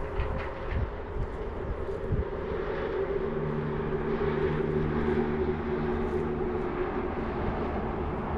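An engine running steadily with a low hum, its tone growing fuller from about three seconds in and easing near the end.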